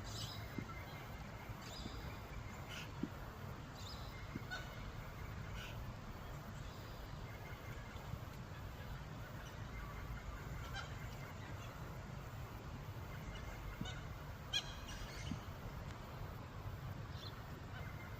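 Australian magpies calling on and off with short, scattered notes, over a steady low background rumble.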